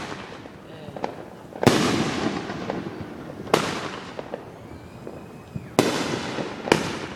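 Fireworks bursting in the air: four sharp bangs a second or two apart, each trailing off into an echo, with smaller pops and crackles between them.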